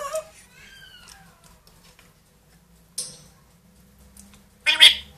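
Pet parrot calling: a short pitched call right at the start, a faint falling whistle about a second in, a brief sharp click about three seconds in, and a loud, short call near the end.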